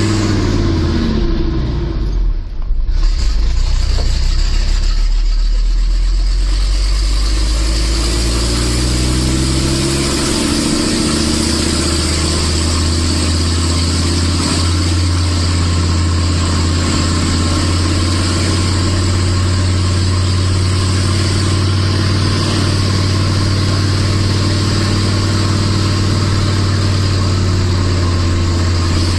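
Nissan Diesel RH10 V10 truck engine working hard under a heavy load on a climb. About two and a half seconds in the sound briefly drops, and the engine note then shifts. From about ten seconds in it runs at a steady pitch.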